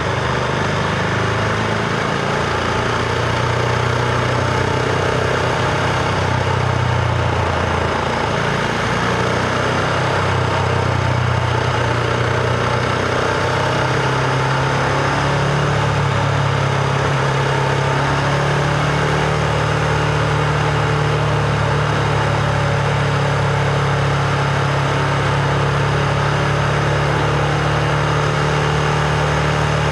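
Husqvarna Vitpilen 701's single-cylinder engine running steadily under way, with wind rush over it; its pitch steps up a little about halfway through.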